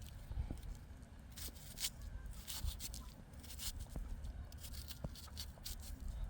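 Irregular scraping and rubbing strokes, several a second, over a low rumble.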